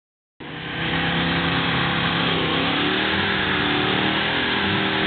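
Buick V8 engine revving hard at a standstill, its pitch rising and falling, as the car builds up to a burnout. The sound comes in suddenly about half a second in.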